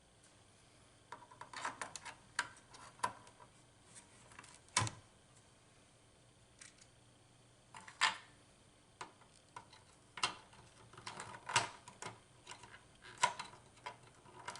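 Scattered clicks and light knocks of circuit boards and hardware being handled and fitted back into an IGT S2000 slot machine, with one sharper knock about five seconds in.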